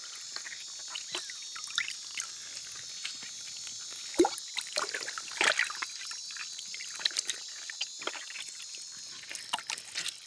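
Water trickling and splashing in short bursts over a steady high rainforest insect chorus, with a sharper splash about four seconds in and another about five and a half seconds in.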